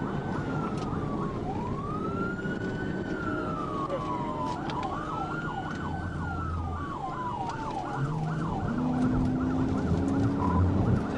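Police patrol car siren in wail mode, rising and falling slowly, then switching to a fast yelp of about three cycles a second, over engine and road noise. In the last few seconds a louder low drone joins it.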